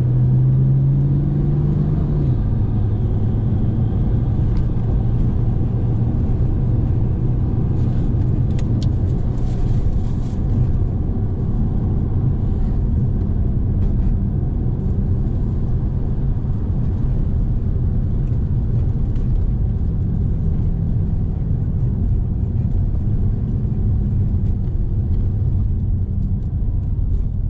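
A car engine running with a steady low rumble. A low tone drops in pitch about two seconds in.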